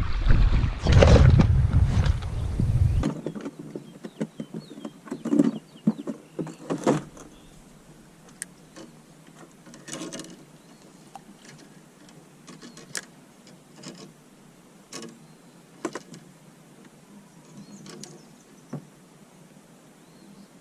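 Wind buffeting the microphone, cutting off abruptly about three seconds in, followed by scattered light clicks and knocks of gear being handled.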